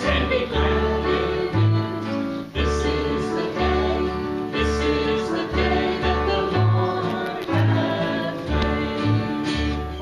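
Gospel-style church music: singing with instrumental accompaniment and a steady bass line.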